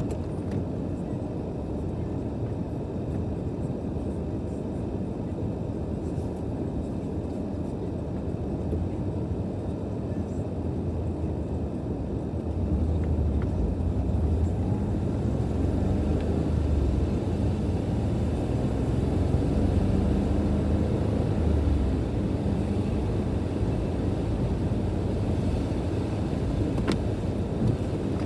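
Steady low rumble of a car being driven, heard from inside. It grows heavier from about halfway through, then eases off a little.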